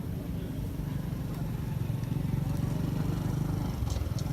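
A vehicle engine running steadily, a low hum that grows a little louder, with a couple of faint clicks near the end.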